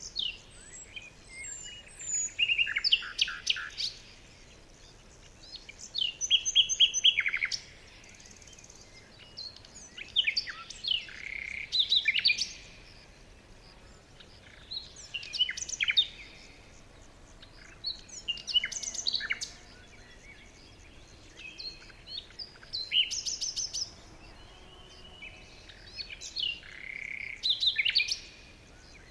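Forest songbirds singing: short phrases of rapid chirps and trills come every few seconds, with quiet stretches of faint background hiss between them.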